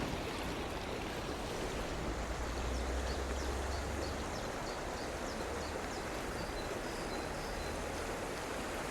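Small stream running over stones, a steady rushing.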